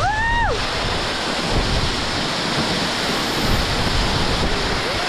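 Waterfall pouring: a steady hiss of falling water throughout, with a short high voice cry that rises and falls right at the start.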